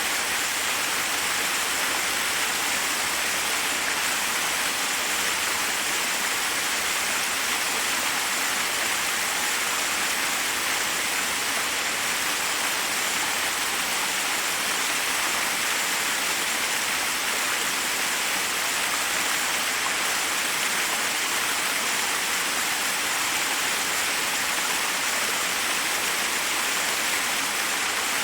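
Forest waterfall: water cascading over rocks in a steady, unbroken rush with a bright, hissy character.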